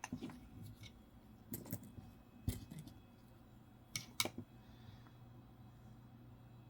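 Coins being handled and set down: a few faint, sharp clicks and taps, the last two close together about four seconds in.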